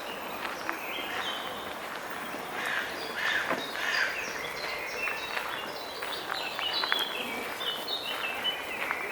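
Several small songbirds chirping and whistling in a busy chorus of short, quick notes, over a steady background noise.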